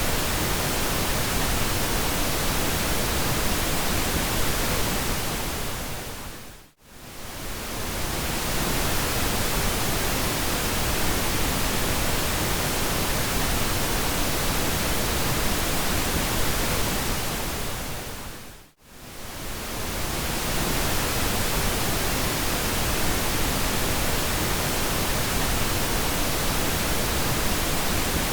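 Steady pink noise, an even hiss spread evenly across low and high pitches. It fades briefly to silence and back twice, twelve seconds apart.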